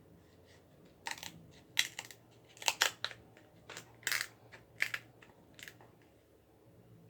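King crab leg shells being cut and cracked open with scissors: a run of sharp cracks and snips from about one second in to about six seconds in.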